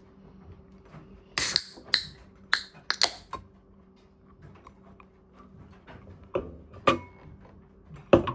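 A scatter of sharp clicks and knocks, several in quick succession early on and a few more spaced out later, over a faint steady hum.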